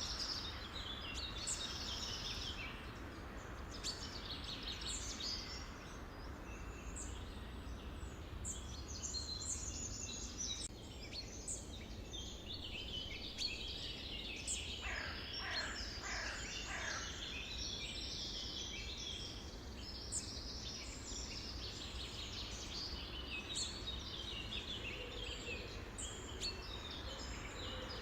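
Many songbirds chirping and trilling at once, a dense overlapping chorus of high calls, with a run of about five downward-sliding calls about halfway through. A steady low rumble sits underneath.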